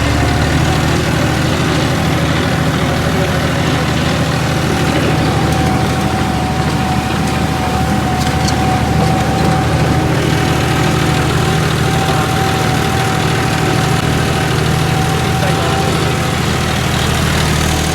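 John Deere 5210 tractor's diesel engine running loud and steady at even revs while pulling an 18-disc harrow, with a thin steady whine over the engine note. The engine holds its rpm under the load, with hardly any drop.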